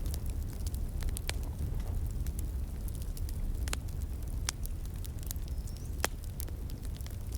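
Wood fire crackling, with sharp pops scattered irregularly over a steady low rumble.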